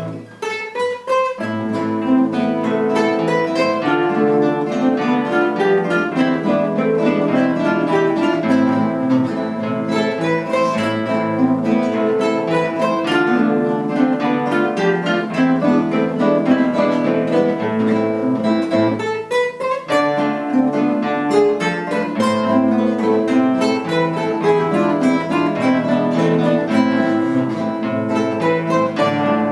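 A guitar ensemble playing an instrumental piece on acoustic guitars, dense plucked and strummed notes over a bass line. It pauses briefly just after the start and again about two-thirds of the way through.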